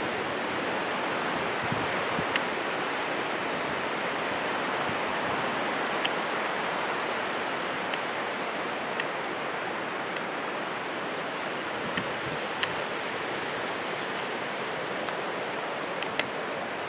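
Strong wind blowing through trees: a steady rushing noise, with a few faint ticks scattered through it.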